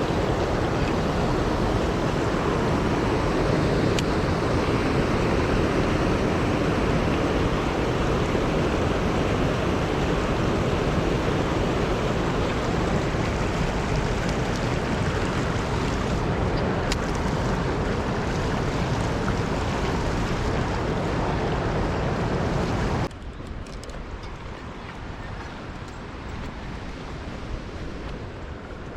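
Steady rushing water of a creek and waterfall, a loud even roar that drops suddenly to a quieter rush about 23 seconds in.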